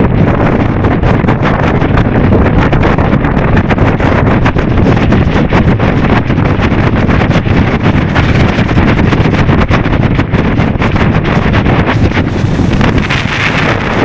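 Heavy gusting wind buffeting the microphone, loud and unbroken.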